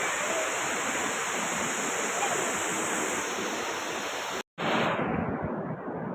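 Steady rushing of a waterfall. About four and a half seconds in the sound cuts out for a moment and comes back duller, with the hiss of the highs gone.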